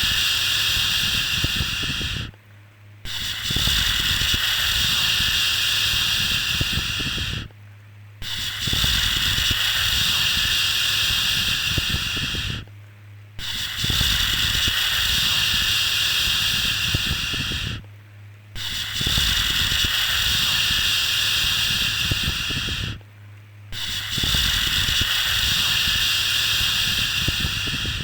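A long, loud 'shhh' shushing sound, repeated over and over. Each shush lasts about four and a half seconds, with a short pause of under a second before the next. A low steady hum carries on through the pauses.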